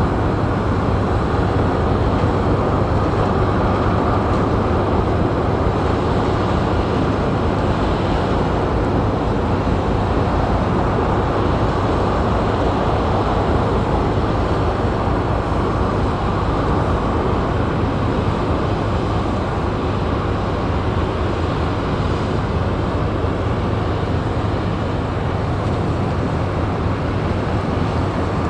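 Ro-Ro passenger ferry's engines running as it pulls away from its berth: a steady, loud, low noise that holds even throughout.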